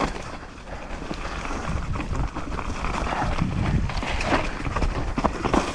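Mountain bike running down a rough dirt downhill trail: tyres on dirt with scattered knocks and rattles of the bike over bumps, and wind rumbling on the microphone.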